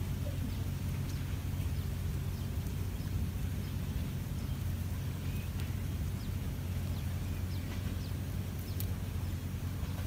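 A steady low hum with faint, short bird chirps now and then.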